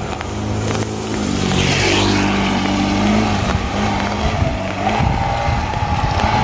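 A motor vehicle's engine running close by as it passes on the wet road, with a swell of tyre hiss about two seconds in, under a constant wash of rain.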